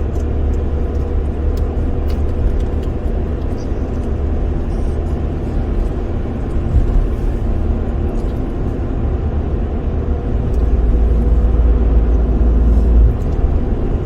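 Road and engine noise inside a moving car: a steady low rumble with a faint steady hum above it, heavier for a couple of seconds near the end.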